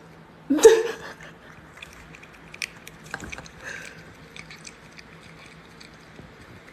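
A cat chewing and biting as it takes its medicine, with a series of faint small wet clicks. A short loud voiced cry comes about half a second in.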